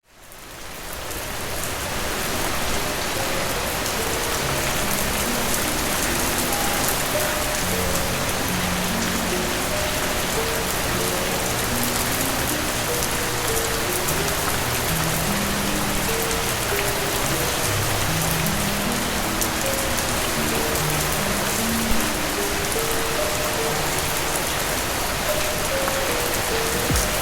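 Steady rain falling, a dense even hiss that fades in over the first couple of seconds, with a slow, soft music melody of low notes underneath.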